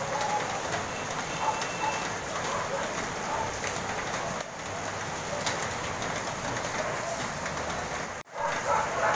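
Heavy rain pouring down steadily on roofs and pavement. The sound cuts out for a split second near the end.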